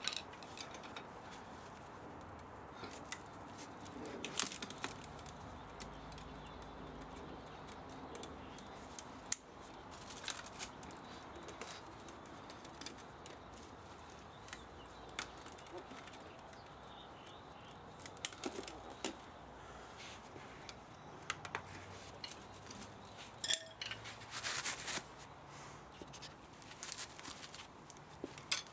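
Irregular sharp clicks and snips of hand tools on metal, as an old spa motor is taken apart for its copper and aluminium.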